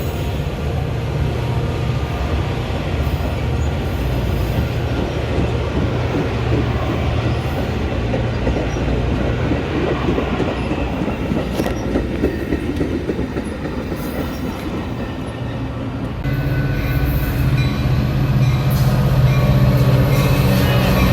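Metra commuter train running on the rails: a steady low diesel locomotive drone with rail noise and a few knocks. It gets louder about three-quarters of the way through.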